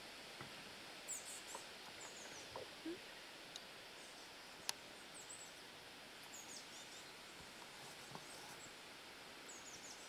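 Faint songbirds chirping in short high phrases a few times over a steady outdoor hiss, with a few soft rustles and one sharp click near the middle.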